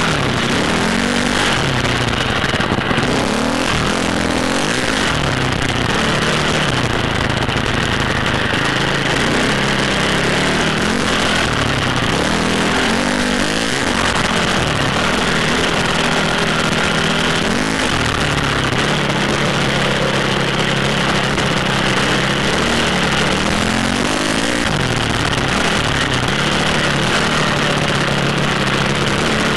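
Dirt bike engine revving up and down as it rides, its pitch rising and falling again and again and holding steady for a few seconds in the second half, over a constant rushing noise.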